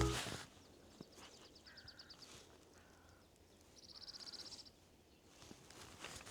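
Male cirl bunting singing: a short, high, rapid trill of evenly repeated notes, faint about a second in and clearer about four seconds in.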